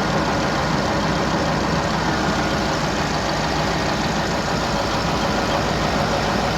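Kirovets K-700 tractor's diesel engine idling steadily with an even low throb.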